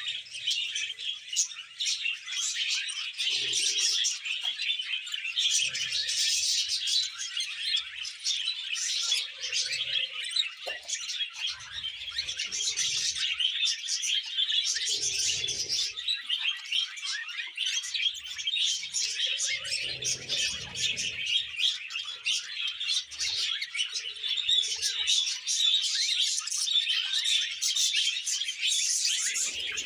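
Budgerigars chattering and warbling without a break: a dense stream of fast, high chirps.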